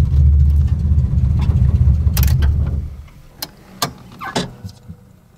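Datsun 240Z's straight-six engine idling steadily, then switched off about three seconds in. A few sharp clicks and knocks follow after the engine falls silent.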